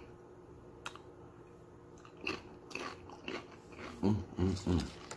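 A person biting and chewing crunchy dill pickle potato chips coated in hot sauce, with a run of crunches a couple of seconds in. Near the end come three short hummed 'mm' sounds of enjoyment.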